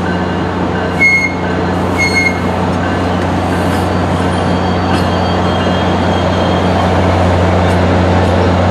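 Diesel-hauled passenger train running, with a steady low engine drone and brief high metallic squeaks about one and two seconds in.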